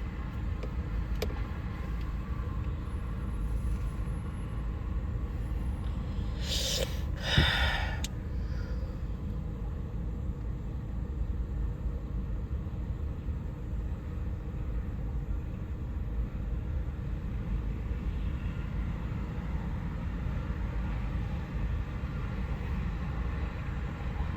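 Steady low rumble of a moving vehicle, with a brief loud hissing burst about seven seconds in.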